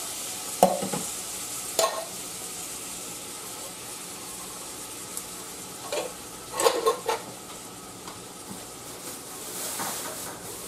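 Onion, garlic and butter frying in a saucepan with a steady sizzle. Short metal clinks of the cans and a fork against the pot as canned green beans are tipped in: once about half a second in, again near two seconds, and a cluster around six to seven seconds.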